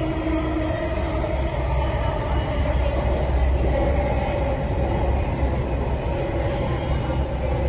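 Metro train running, heard from inside the carriage: a steady low rumble and rushing noise with a steady whine over it.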